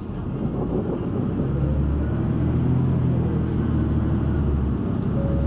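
City bus engine and drivetrain heard from inside the passenger cabin. A low rumble grows louder over the first couple of seconds as the bus gets under way, then runs steadily.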